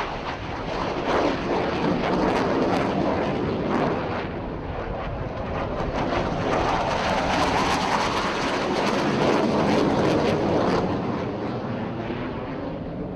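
Jet aircraft flying past in an air show display, their engine noise a loud rushing sound. It swells about a second in, then swells longer and louder about halfway through before fading near the end.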